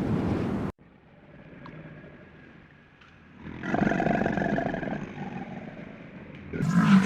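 Wind-like noise that cuts off abruptly, then a large animal's calls: a wavering call from about three and a half seconds in, and a louder, deeper call starting near the end.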